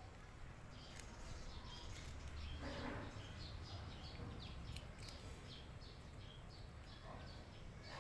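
Small birds chirping again and again with short, high notes, faint, over a low steady background rumble.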